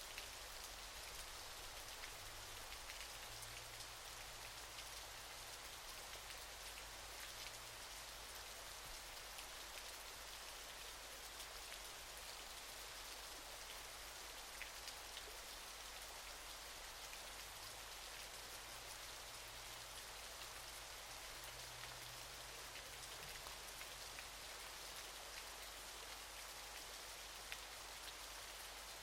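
Waterfall rushing steadily: an even hiss of falling water, faint throughout, with small droplet ticks scattered through it.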